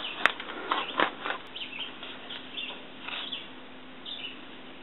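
Birds chirping faintly in short scattered calls, with two sharp clicks in the first second.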